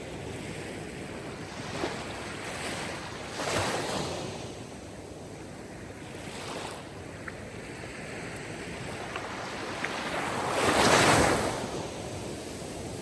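Sea surf: waves rolling in and breaking on a shore as a continuous wash of noise that swells and ebbs every few seconds, with the biggest wave breaking near the end.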